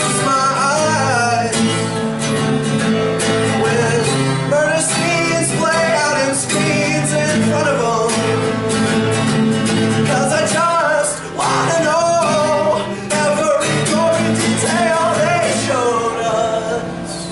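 Live song: a man singing long, wavering notes over a strummed acoustic guitar.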